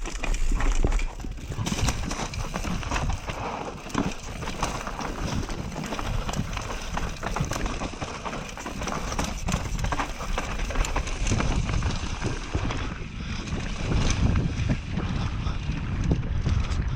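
Mountain bike rattling over a rough dirt trail: steady tyre and trail noise with many small knocks and clicks from the bike, with wind on the microphone.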